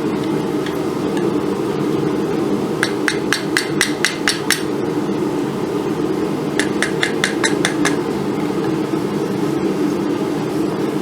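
Two quick runs of hammer taps on hot steel, about eight strikes and then about six a couple of seconds later, as the quillons of a sword's clamshell guard are bent. A steady low rushing noise runs underneath.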